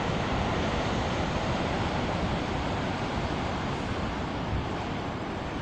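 Large ocean waves breaking and washing ashore: a steady, dense rush of surf, easing slightly toward the end.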